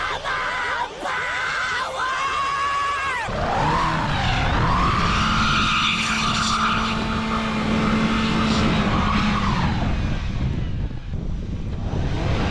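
Car engine revving hard while its wheels spin in deep snow. About three seconds in, the pitch climbs and holds high for several seconds, then drops away.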